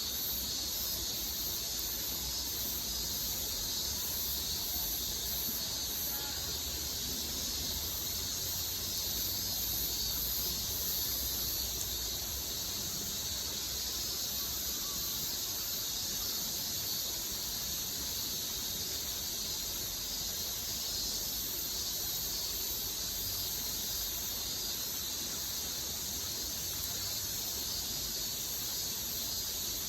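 Steady high-pitched outdoor hiss with an insect drone, pulsing faster at the top during roughly the first twelve seconds.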